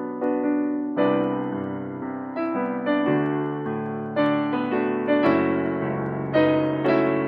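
Solo piano music, a pop-song arrangement: chords and melody notes struck every half second to a second and left to ring and fade.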